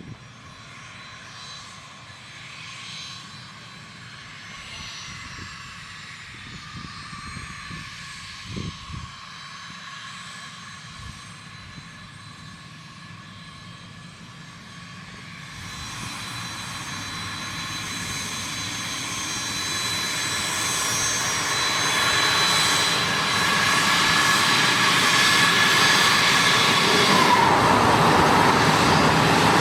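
Bombardier Learjet 31A's twin turbofan jet engines whining, faint at first and growing steadily louder over the second half as the jet comes close. In the last few seconds one tone drops in pitch.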